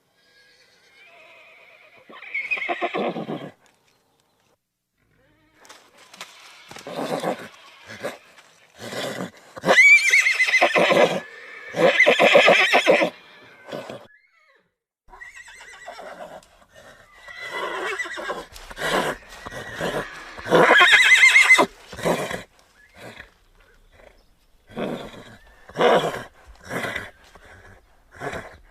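Horses neighing and whinnying in a series of separate calls. The loudest, longest whinnies come around ten and twenty seconds in, and shorter calls follow near the end.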